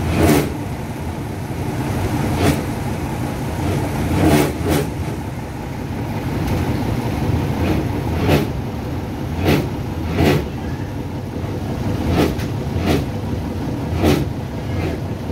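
German-built Cold War–era diesel multiple unit pulling out slowly, with a steady low rumble. Over it come sharp clacks every second or two, some in close pairs, as its wheels cross rail joints.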